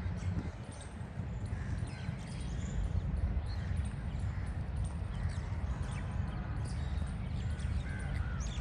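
Birds calling with short, scattered chirps over a steady low rumble.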